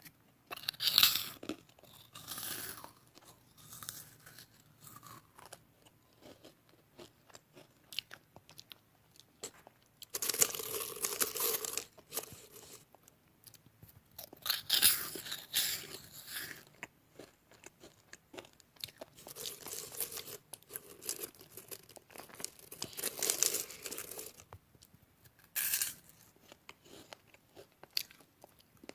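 Crisp meringue being bitten and chewed: bursts of dry crunching come every few seconds, with quieter chewing crackles between them.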